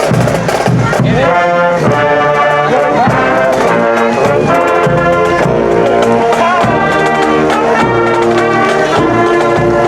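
Brass band playing a tune, loud with held notes.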